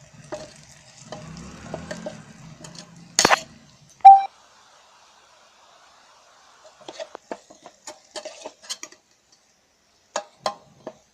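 A spoon stirring and scraping spiced onion masala in the hot pot of an electric kettle, with light sizzling, a low hum and scattered clicks of the spoon on the metal for the first four seconds. A single sharp ringing clink about four seconds in is the loudest sound. Later come bursts of spoon clicks and taps against the pot.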